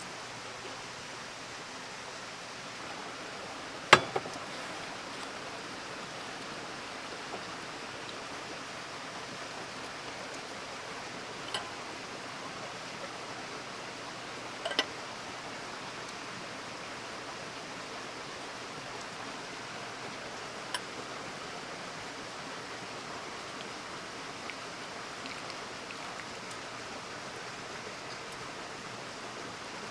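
Campfire burning with a steady hiss and a few sharp pops of the wood, the loudest about four seconds in and smaller ones later.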